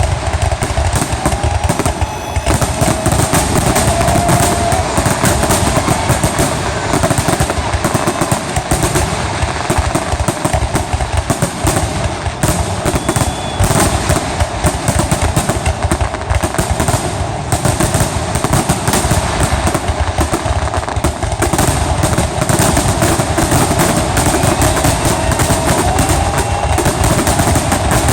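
Fireworks barrage: a dense, continuous rapid-fire string of bangs and crackling, with a few faint whistles gliding through it, typical of a grand finale.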